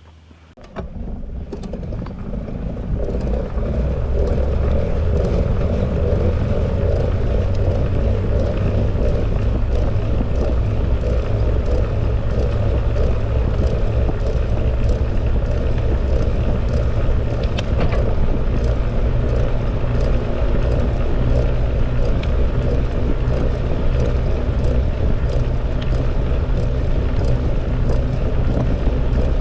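Wind rushing over the microphone and tyre noise of a bicycle being ridden, starting under a second in and building up over the next few seconds before holding steady, with many scattered small clicks and ticks.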